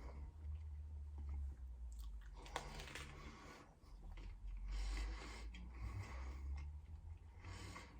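A man chewing mouthfuls of an omelette baguette close to the microphone, in irregular bites and chews.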